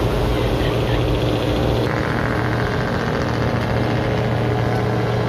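Passenger speedboat engine running steadily with a deep, even hum. The sound changes character about two seconds in.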